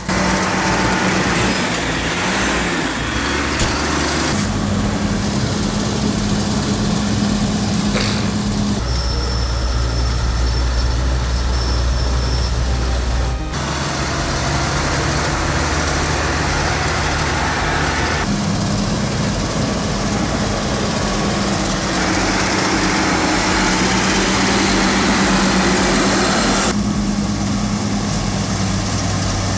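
Heavy earthmoving machinery's diesel engines running steadily. The engine note changes abruptly several times along the way.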